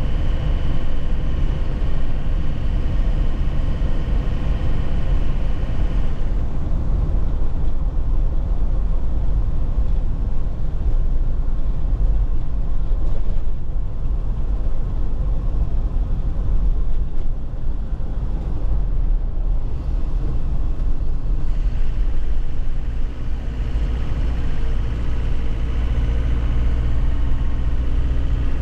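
Nissan Cabstar light truck's engine running steadily while driving. Higher steady tones fade about six seconds in and return near twenty-two seconds.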